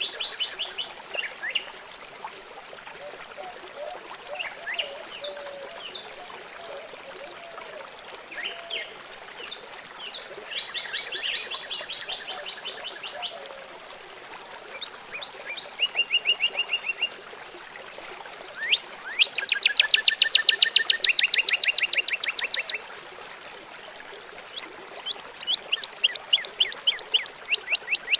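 Songbirds calling in a series of rapid trills and chirps over a steady trickle of running water; the longest and loudest trill comes a little past the middle.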